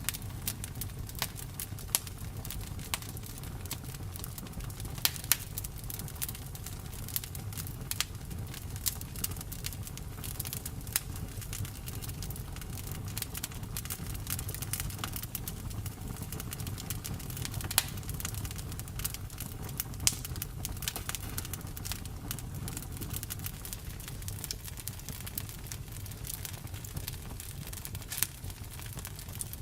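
Campfire burning, the wood crackling with irregular sharp pops over a steady low rumble.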